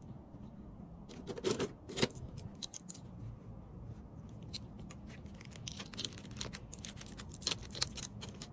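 Small items and packaging being handled: scattered light clicks and crinkling, busiest around a second and a half in and again over the last few seconds.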